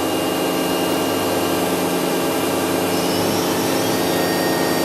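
Toshiba MPF-2114C bridge-type machining center's spindle running at about 6,000 RPM: a steady whine with several tones, one of which moves higher about three seconds in.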